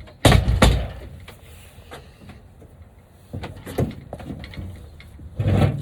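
A few knocks and thuds, two loud ones about half a second in, a couple of lighter clicks in the middle and another heavier thud near the end.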